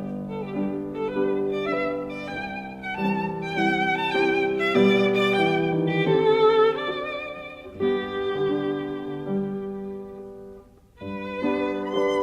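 Background music led by a violin playing slow sustained notes with vibrato over accompanying chords; it dies away about eleven seconds in and picks up again just after.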